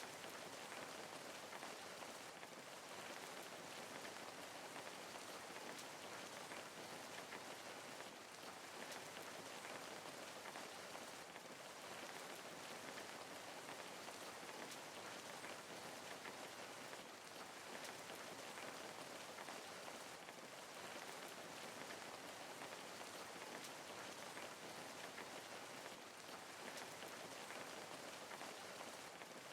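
Steady, even rain, with many fine drops pattering on a surface.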